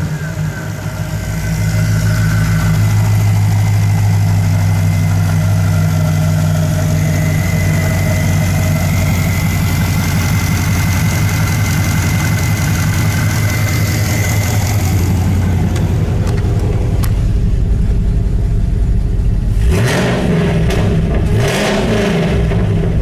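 2010 Camaro SS 6.2L L99 V8 with an Edelbrock E-Force supercharger, running steadily in park with a thin, steady high whine over the engine note. Near the end it is revved twice and falls back.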